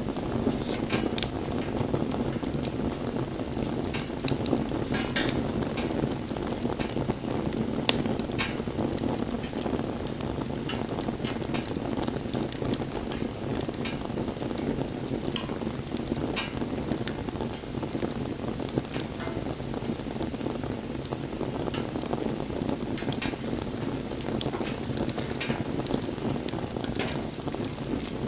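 Wood bonfire burning: a steady low rush of flames with frequent sharp crackles and pops from the burning wood.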